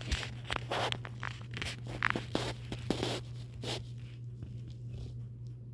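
Irregular rustling and scratching: a quick string of short scrapes and clicks over a steady low hum.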